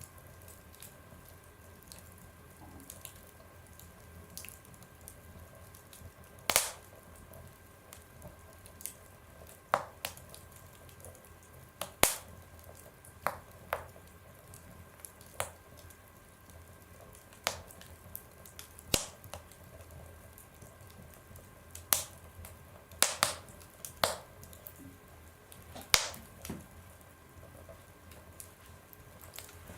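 Wood fire burning in a stove, crackling with sharp, irregular pops and snaps, about a dozen louder ones, over a steady low hum.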